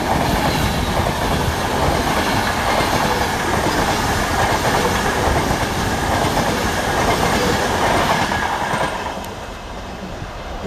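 A train running past on the rails, a loud steady rumble of wheels on track that dies away about nine seconds in.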